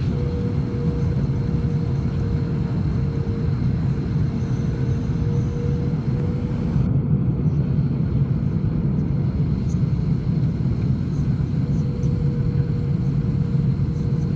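Steady low rumble of an airliner's engines and rushing air, with a faint steady hum above it.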